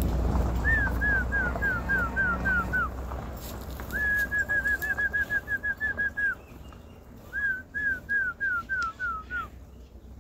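A small bird singing in three phrases of clear whistled notes: a run of about eight falling notes, then a quick trill of short notes, then another run of falling notes. A low rumble underlies the first few seconds.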